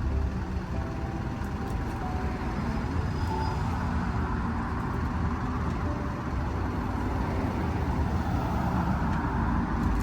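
Steady rumbling road-vehicle noise, even throughout.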